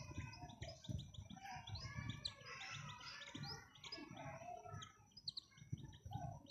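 Birds chirping busily: a rapid run of many short, high chirps and squeaks. Uneven low rumbling thumps sound underneath.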